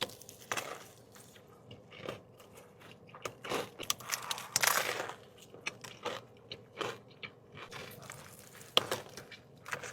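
Close-up biting and chewing of a sandwich stuffed with Doritos and hot Cheetos. There are scattered crisp crunches, a denser crunch about four and a half seconds in, and a sharp crack near the end.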